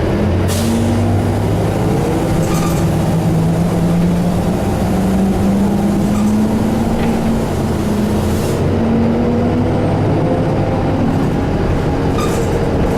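Detroit Diesel Series 50 engine of a New Flyer D35LF transit bus running under way, heard from on board, its note rising and falling as the bus drives and the automatic gearbox shifts. Short hisses of air come through a few times, near the start and about two-thirds of the way in.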